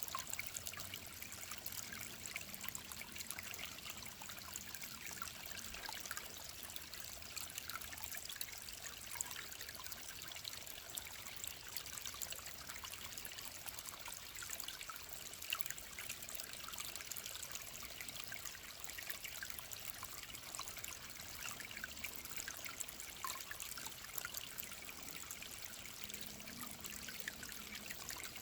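Mountain stream trickling steadily, a continuous splashing with many small, quick droplet ticks.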